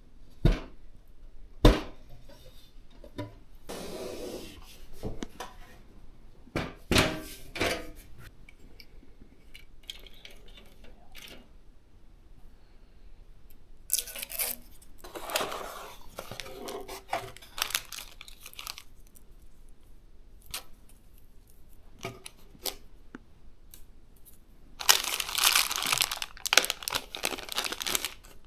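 Packaging being handled while a PC case is unboxed: a few sharp knocks in the first two seconds, scattered clicks, then stretches of tearing and crinkling wrapping, the loudest crinkling near the end.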